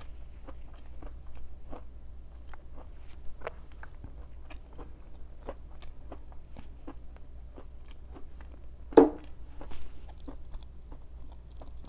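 Close-up chewing of a breaded, greasy KFC Beyond vegan fried chicken nugget: a steady run of small crunches and wet mouth clicks, about two to three a second, with one much louder crunch about nine seconds in.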